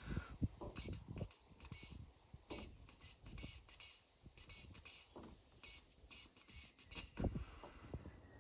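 Roe deer call (Blatter) blown in a run of about fifteen short, high-pitched squeaks imitating a doe's fiep, some drawn out and dropping in pitch at the end, to lure a roe buck. Faint low knocks sound underneath.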